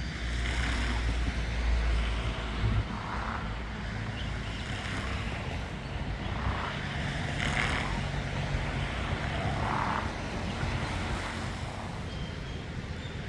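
Wind rumbling on the microphone over a steady outdoor hiss, heaviest in the first few seconds, with a few short bird calls spread through it.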